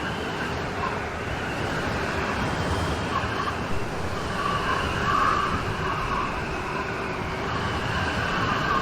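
Steady rain storm noise, a dense even hiss, with a higher band of sound that swells and fades every couple of seconds.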